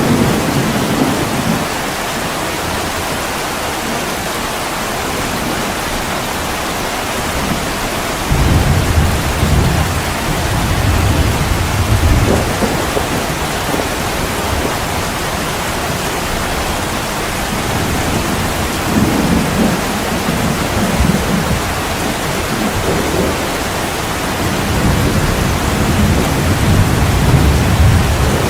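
Heavy rain falling steadily, with deep rolls of thunder rumbling three times, each lasting a few seconds, the last one near the end.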